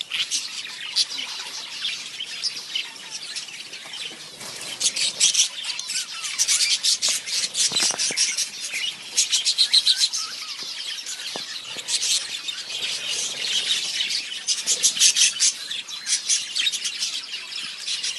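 Small pet parrots chattering, with rapid high chirps and scratchy calls that run on without a break.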